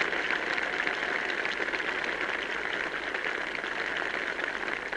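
A large crowd applauding steadily, many hands clapping at once, fading slowly.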